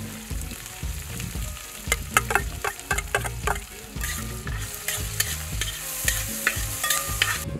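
Chopped ginger, garlic and green chillies frying in hot coconut oil in a wide aluminium pan. A metal spatula scrapes and taps against the pan in a quick run of sharp clicks from about two seconds in, and a steady sizzle grows louder in the second half.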